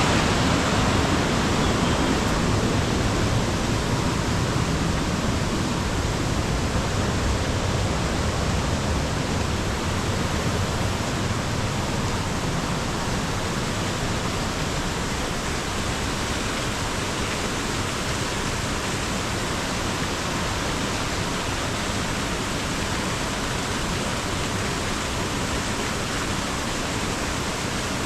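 Mountain stream water flowing: an even, continuous rush of water noise.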